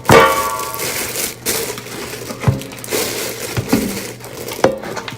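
Parts of a new air fryer being handled: a sharp clunk with a brief ring at the start, then scattered knocks and rattles with some rustling.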